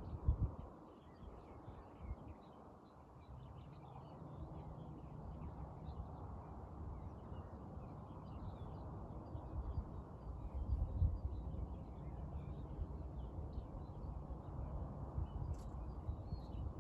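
Outdoor natural ambience: a steady low rumble that swells about eleven seconds in, with a couple of thumps, under faint, scattered high bird chirps.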